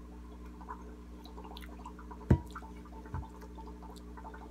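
Soft chewing of a mouthful of chocolate cake over the steady hum and bubbling of an aquarium air pump. A sharp knock comes a little over two seconds in, and a fainter one about a second later.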